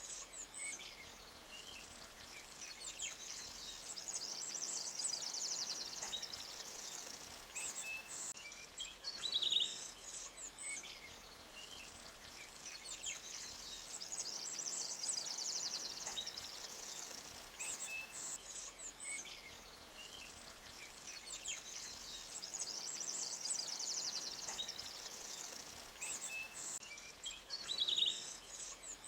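Forest birds chirping and trilling in short, repeated phrases, over the faint steady rush of a creek. The same bright chirp run comes back about every eighteen seconds, as in a looped recording.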